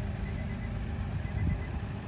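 Tractor engine running, a low steady rumble.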